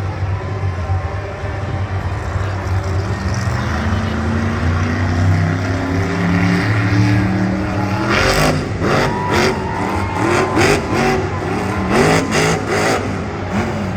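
Grave Digger monster truck's supercharged V8 engine running loud, its pitch rising for a few seconds. After about eight seconds it breaks into a run of short, sharp bursts for several seconds as it is revved hard.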